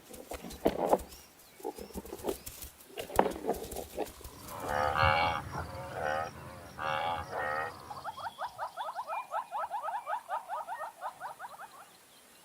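Herd game animals calling: several deep lowing calls about halfway through, then a fast run of short repeated calls, about five a second, that stops near the end.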